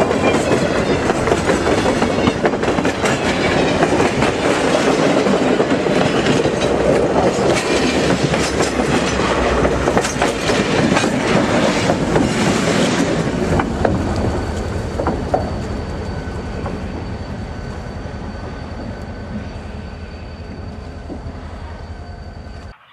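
Freight train rolling past close by, its wheels clattering over the rail joints. The sound fades steadily from about halfway through as the train moves away, leaving a thin steady high whine.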